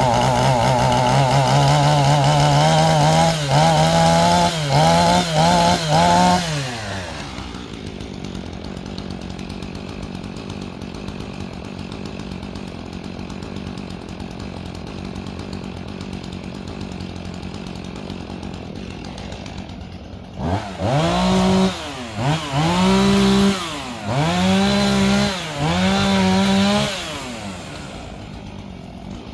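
Gas chainsaw at full throttle during tree felling, its revs dipping briefly a few times, then dropping to idle about seven seconds in. Near the end it is revved up four times in short bursts before falling back to idle.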